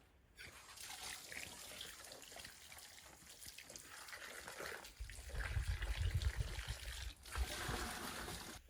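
Water running and trickling, growing heavier and splashing harder about five seconds in.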